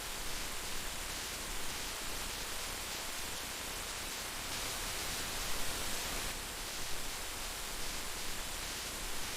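Heavy rain falling steadily: a dense, even hiss of rainfall.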